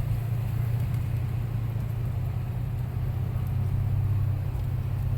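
Toyota FJ Cruiser's 4.0-litre V6 running steadily under way through floodwater, a constant low drone with a faint wash of noise over it.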